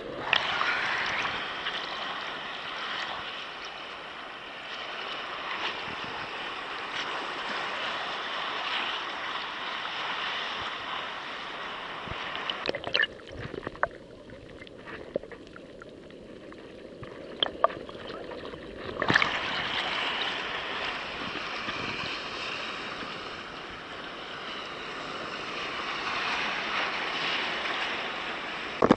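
Waves sloshing and gurgling around rocks and against a kayak's hull: a steady wash of water that quiets for several seconds past the middle, with a few small knocks.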